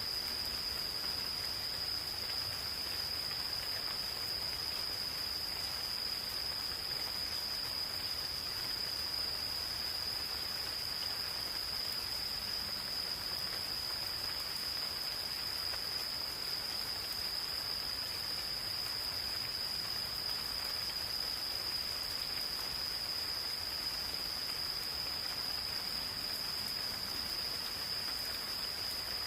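Insects calling in one continuous high, unbroken trill over gentle rain falling on the forest, a soft even hiss.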